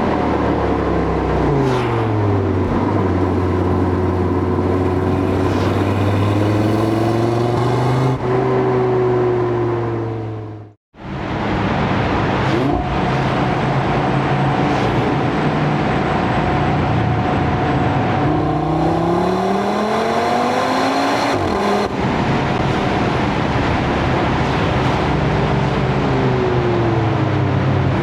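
Audi RS3's turbocharged 2.5-litre inline five-cylinder engine pulling through the gears on a road drive, its pitch falling, holding, then rising and falling again as it revs and shifts. About eleven seconds in, the sound cuts out briefly.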